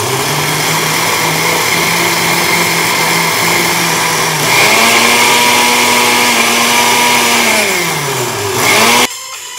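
Countertop blender with a glass jar running, blending a thin chili and lime sauce. Its motor hum is steady, steps up in pitch about halfway through, then winds down, picks up briefly and stops near the end.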